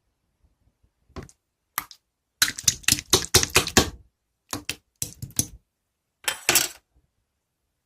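Slime being squeezed and pressed in the hands, giving clusters of sharp crackling clicks in several bursts, densest in the middle.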